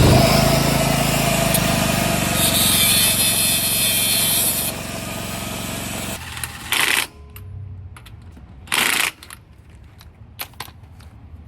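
Angle grinder cutting into a car's wheel-arch sheet metal. It runs continuously for about six seconds, with a harsher, higher-pitched stretch in the middle, then stops and gives two short bursts.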